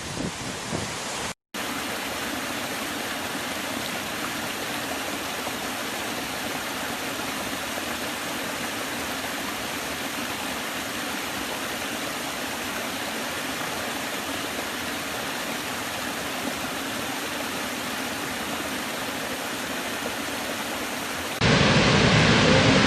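Waterfall rushing in a steady roar of falling water. It drops out briefly about a second and a half in, then comes back; near the end it steps up to a louder, fuller rush.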